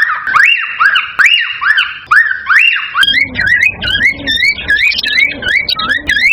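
Cockatiel whistling a repeated series of rising-and-falling calls, about two a second. About halfway through, the recording switches to a quicker, busier run of notes with a lower sound underneath.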